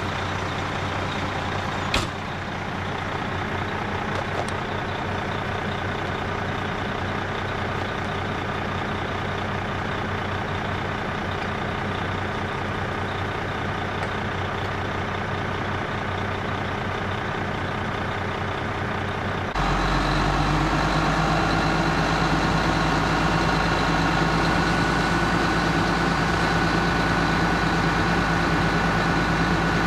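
Seagrave fire engine's diesel running steadily at the scene. About two-thirds of the way through it gets suddenly louder, with a deeper drone and a steady higher hum joining in.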